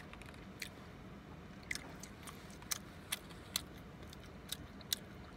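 A person chewing fast food close to the microphone: irregular sharp clicks and crunches, about a dozen in all.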